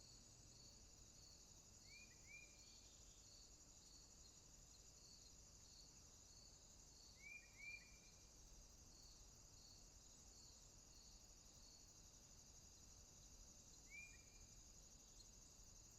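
Faint night-time rainforest insect chorus: a steady high-pitched buzzing drone, with a repeating chirp of about one and a half pulses a second that stops about ten seconds in. A short double chirp call rings out three times over it.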